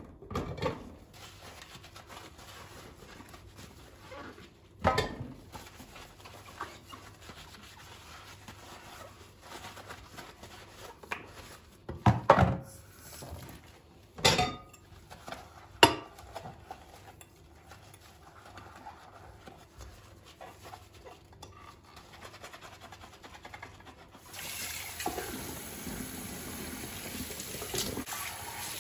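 Dishes and kitchen items handled at a sink, with a few scattered clinks and knocks, then a tap turned on about 24 seconds in and water running steadily.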